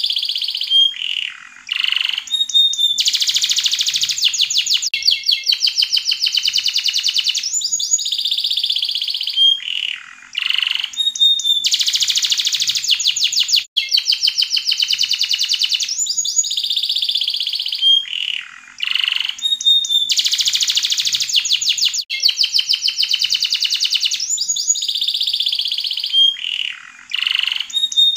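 Yellow domestic canary singing a long, continuous song of very rapid rolling trills, broken every few seconds by short sliding whistled notes.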